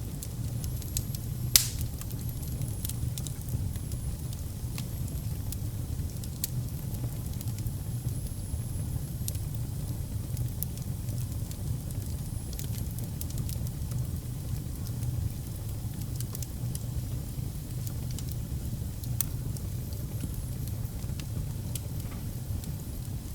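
Wood fire burning in a fireplace: a steady low rumble of the flames with scattered crackles and one loud pop about a second and a half in, and a faint high whistle now and then.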